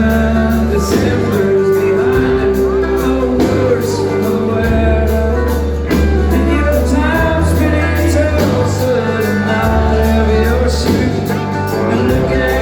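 A country band playing live: drums keep a steady beat under held bass notes, with melody lines over the top.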